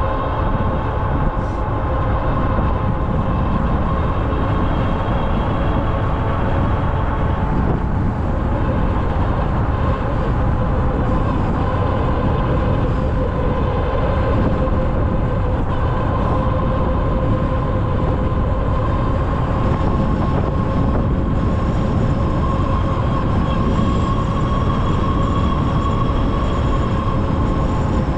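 Ariel Rider Grizzly e-bike under way, its electric motor giving a steady whine that drifts slightly in pitch with speed, over a continuous low rumble.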